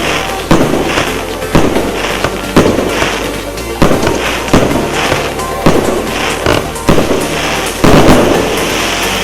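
Consumer firework cake (SS8865 "Derzkaya Krasavitsa") firing a rapid series of about a dozen shots, one every half second to second, each followed by crackling, over background music.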